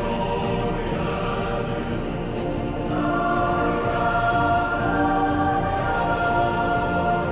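Choral music: voices holding long chords, which move to a new chord about three seconds in.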